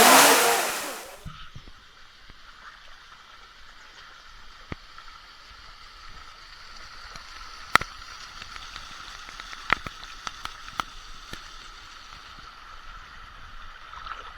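Loud rushing water that fades out over about the first second, then a small stream flowing quietly and steadily, with a few sharp clicks partway through.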